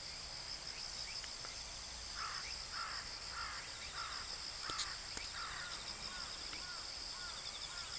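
A bird calling over and over from about two seconds in, roughly one call every half second, over a steady shrill drone of insects. Two sharp clicks come near the middle.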